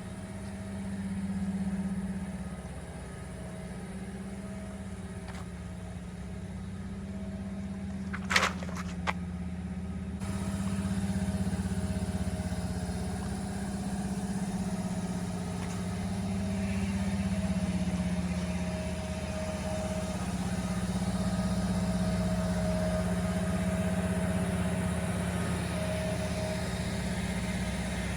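Toyota Land Cruiser 70's engine running steadily, a low drone that swells and eases slightly. Two short sharp clicks come about eight seconds in.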